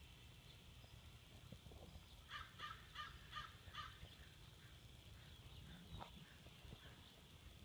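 Faint crow cawing: a quick run of about five caws a couple of seconds in, followed by a few softer calls.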